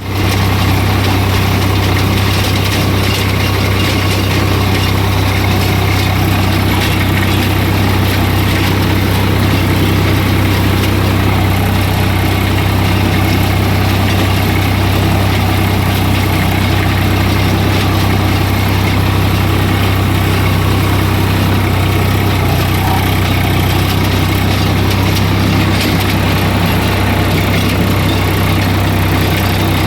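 Swaraj 744 tractor's three-cylinder diesel engine idling steadily, with an even low hum.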